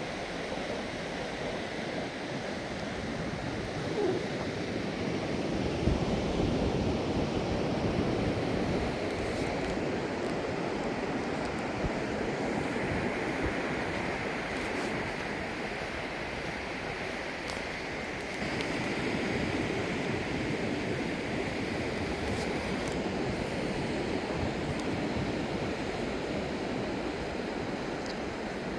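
Ocean surf breaking and washing up a beach: a steady rush that swells louder about a fifth of the way in and again past the middle.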